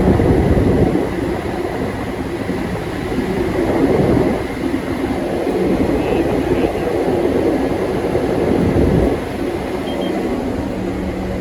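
Hyundai Porter II truck on the move, heard from inside the cab: a steady rumble of engine and road noise. It eases off near the end, leaving a steadier engine hum.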